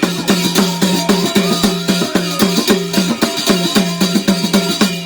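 Instrumental passage of Garhwali jagar folk music: fast, steady drumming, each stroke ringing with a low pitched drum tone.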